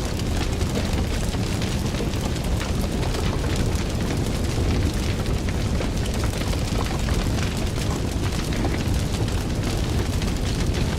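Fire burning steadily: a low roar of flames under many small, irregular crackles and pops.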